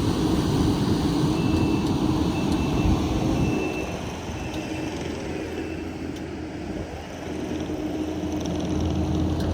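A heavy-equipment engine running steadily; it eases off about four seconds in and builds again near the end. A faint repeated high beep sounds over it early on.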